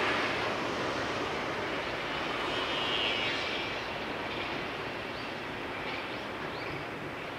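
Distant electric multiple-unit train of two coupled sets approaching on the tracks: a steady rushing rumble that eases a little, with faint high wheel squeals from about five seconds in.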